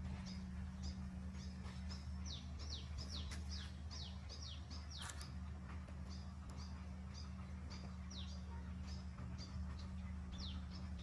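Small birds chirping: short high chirps and a run of quick downward-sweeping calls, over a steady low hum, with one sharp click about five seconds in.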